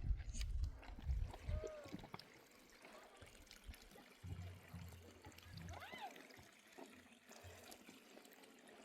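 Water trickling and pouring faintly, with a low rumble in the first second or two and a few faint short calls that rise and fall.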